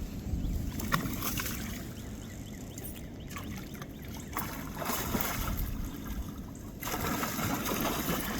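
Water splashing and trickling beside a small fishing boat while a fish is fought, with wind rumbling on the microphone. The louder splashing comes in irregular stretches.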